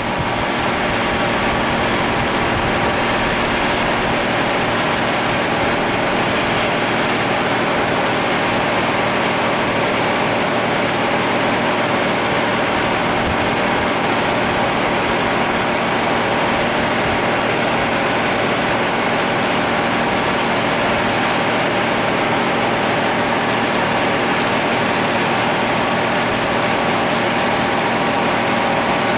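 Class 156 diesel multiple unit's Cummins diesel engines idling steadily while the train stands.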